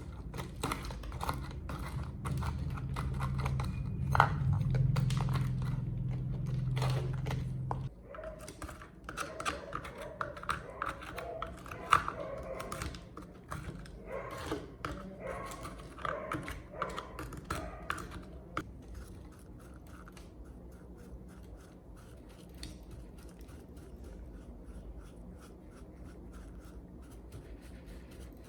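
A steady low hum with clicks over it, cutting off about eight seconds in, then a busy run of clicks and knocks from hand work, thinning to faint taps for the last ten seconds.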